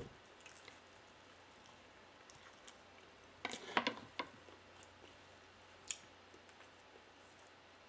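Quiet close-miked chewing of soft banana pancake, with a short cluster of clicks and knocks about three and a half seconds in as the metal fork is set down on the wooden plate, and one more click near six seconds.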